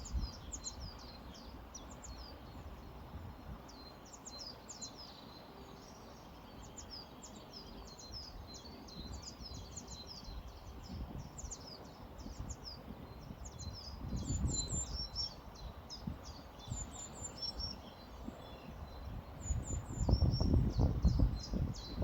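Small birds chirping rapidly and continuously in short high notes, over a low background hiss. A low rumbling noise swells briefly about two-thirds of the way in and again, louder, near the end.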